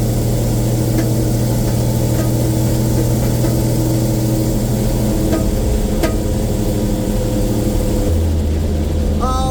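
Bedford RL truck's straight-six petrol engine running steadily while driving. Its note drops to a lower pitch about eight seconds in.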